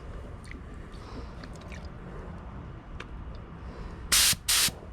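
Compressed-air paint spray gun giving two short hisses near the end, about half a second apart, over a low steady background rumble.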